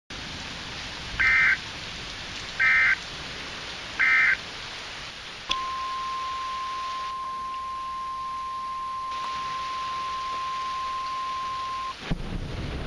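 Emergency Alert System broadcast on NOAA Weather Radio: three short bursts of warbling data tones, then the steady 1050 Hz warning alarm tone held for about six seconds, over a steady hiss. It announces a weather warning.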